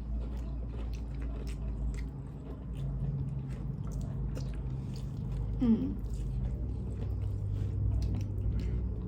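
Close-miked chewing and biting of fried chicken lollipops: an irregular run of small crunches and wet mouth sounds.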